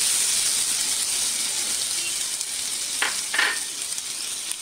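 Chopped ginger and garlic sizzling in hot ghee with mustard seeds and cumin in a nonstick kadhai, stirred with a silicone spatula. A steady frying hiss, with two short louder strokes about three seconds in.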